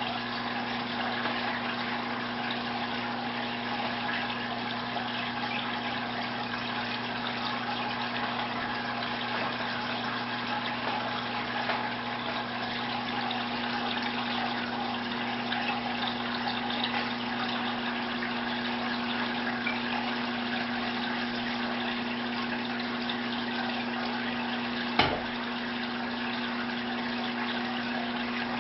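Aquarium pump running: water bubbling and splashing steadily over a constant electric hum, with a single sharp knock near the end.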